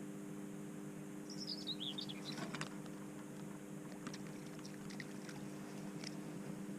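Songbird singing in the background: one quick, falling warbled phrase about a second in, then a few short chirps and faint clicks, over a steady low hum.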